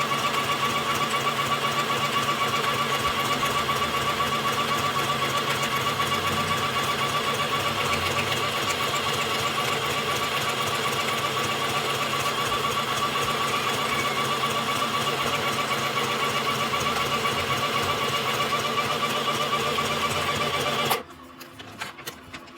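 Sew Simple K1127 mini sewing machine running at its high speed setting, stitching steadily. The motor stops suddenly near the end.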